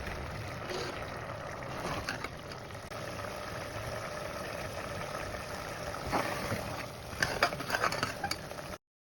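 Qeema (spiced minced meat) cooking in a pan: a steady sizzling bubble, with a few sharp clicks near the end before the sound cuts off suddenly.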